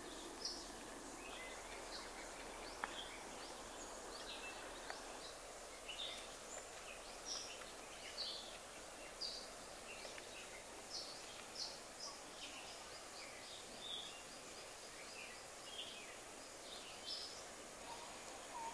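Birds chirping in short, high notes, one or two a second, over a faint steady background hiss.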